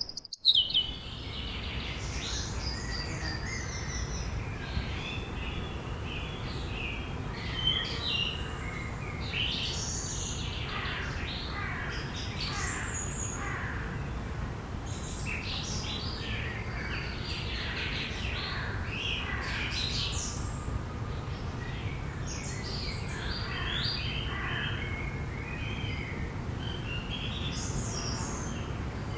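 Forest birdsong ambience: many songbirds chirping and trilling over each other above a steady low background hiss. It cuts in after a brief dropout at the very start.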